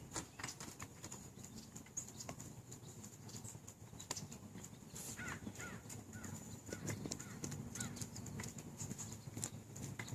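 Irregular light clicks and taps, with a few short bird chirps about halfway through.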